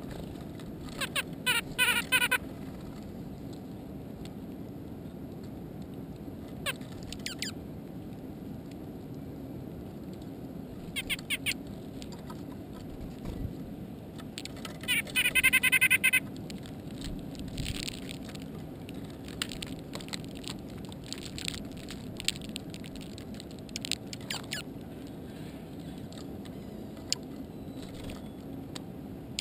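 Birds calling in three short, harsh, buzzy bursts, about 2, 11 and 15 seconds in, the last the loudest, over a steady low hum, with scattered light ticks and taps in the second half.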